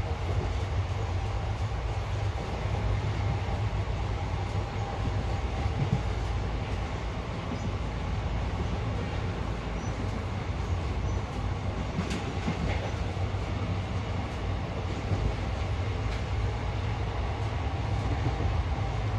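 Steady low rumble of a moving passenger train heard from inside a sleeper coach, the wheels and running gear on the track, with a faint click about twelve seconds in.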